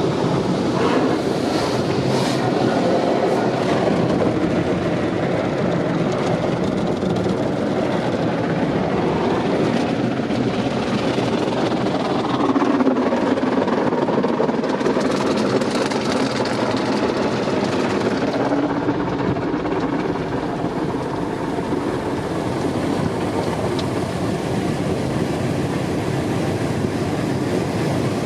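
Steady vehicle rumble with no distinct events, its tone shifting slightly partway through.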